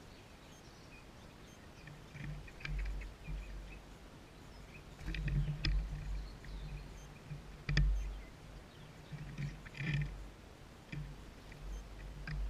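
Small birds at a seed feeder: scattered sharp clicks and taps and short high chirps, over intermittent low rumbling.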